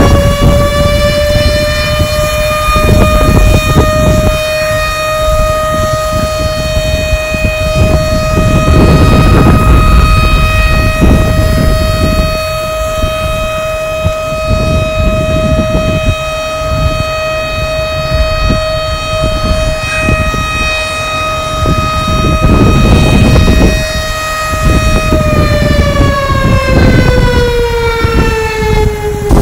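A long, steady whistling tone with many overtones, rising slightly in pitch at the start and sliding down near the end, over gusts of wind buffeting the microphone.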